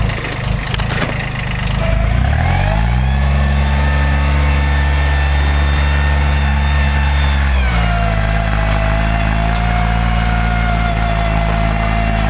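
Timberjack forwarder's diesel engine revving up about two seconds in, holding at high speed for about five seconds, then dropping back to a lower steady speed, with a steady whine above the engine note.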